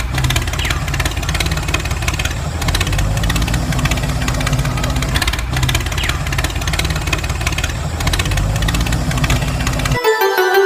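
A small engine or motor running steadily with a rapid ticking rattle, then cutting off abruptly near the end.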